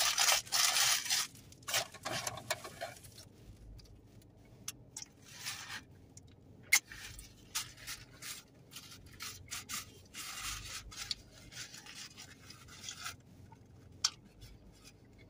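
Close-miked chewing of a McDonald's McChicken meal. A run of loud, crisp crunches fills the first three seconds, then quieter chewing and mouth clicks follow.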